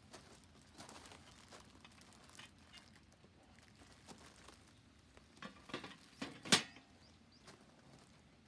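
Scattered light clicks and knocks, with a quick run of louder ones about five and a half seconds in ending in one sharp knock.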